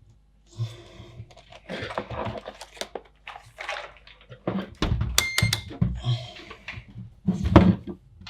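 Hard plastic computer-case parts being handled: irregular knocks, clicks and short scrapes, with louder thunks about five seconds in and again near the end.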